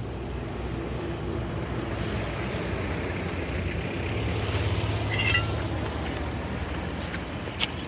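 Steady rush of flowing water with a low, even rumble under it, swelling toward the middle. A short squeak about five seconds in, and a sharp click near the end.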